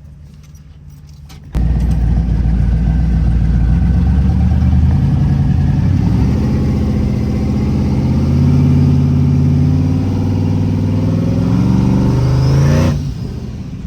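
A street car's engine at full throttle, heard from inside the cabin. It opens up suddenly about a second and a half in and pulls hard through several gear changes, its pitch climbing and then stepping back down at each shift. The driver lifts off just before the end.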